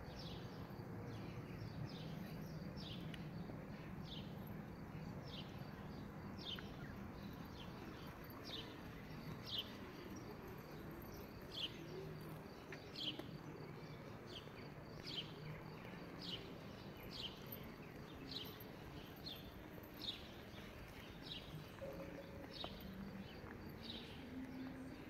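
A bird repeating a short, high, falling call about once a second over steady outdoor background noise.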